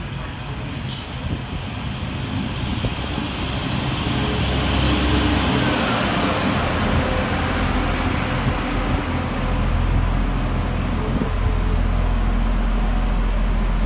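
A diesel multiple-unit train running into the station alongside the platform. Its engine and wheel noise build to a peak about five seconds in, then settle to a steady low engine hum.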